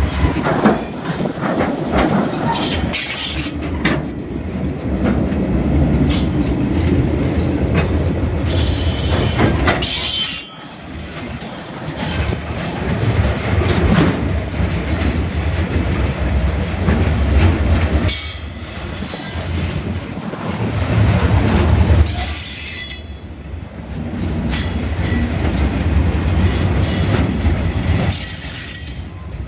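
Loud, continuous rumbling with a deep hum, broken every few seconds by short spells of high-pitched hiss or squeal; it eases off briefly about a third of the way in and again past two-thirds.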